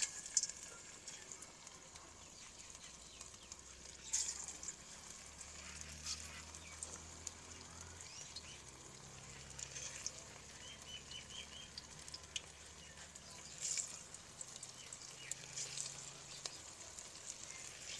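Battered chicken pieces frying in hot ghee in an aluminium karahi over a wood fire: a faint steady sizzle with scattered crackles, louder about four seconds in and again near fourteen seconds.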